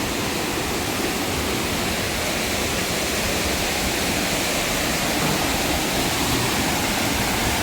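Water rushing steadily over a small waterfall on a stream.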